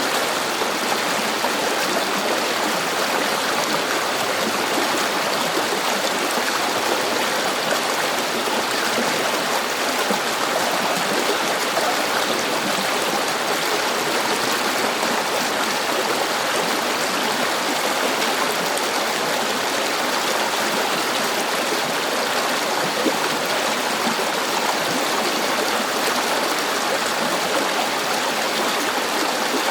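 River water flowing steadily over rocks: a continuous, even rush with a light bubbling and gurgling texture.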